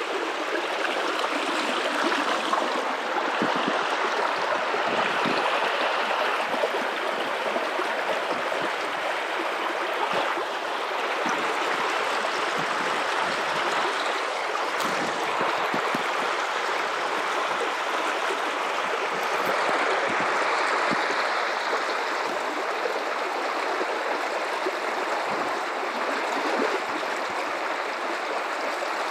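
River water running and gurgling over rocks, a steady rushing flow.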